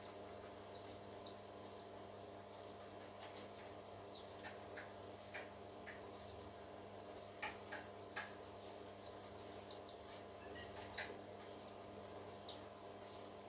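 Faint, high peeping of a hatching parrot chick, in quick runs of a few chirps, mixed with scattered soft clicks over a steady hum.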